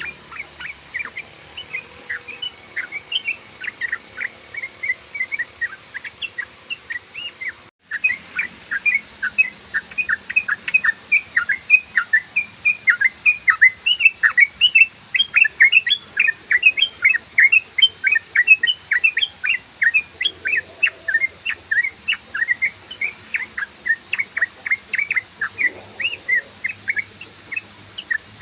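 Yellow-vented bulbul (trucukan) singing a fast, unbroken chatter of short, sharp notes, about five a second, with a momentary break about eight seconds in.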